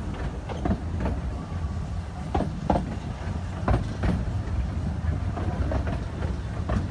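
Railway carriage rolling along the track: a steady low rumble from the wheels, with irregular clacks and knocks over the rail joints.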